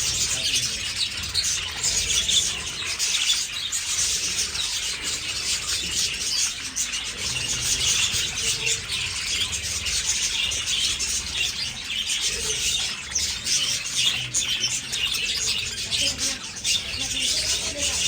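A flock of budgerigars chattering and chirping all at once, a dense, continuous mass of short high calls.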